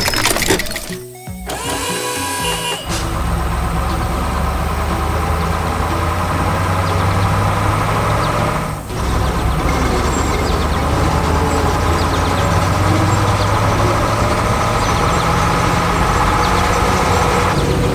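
Heavy truck or machine engine running steadily, with one brief drop about halfway through. Clattering and knocking sounds come in the first few seconds, before the engine sound settles.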